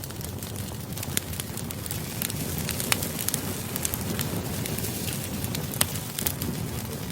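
Wood fire crackling: a steady low rush of burning with frequent sharp pops and snaps.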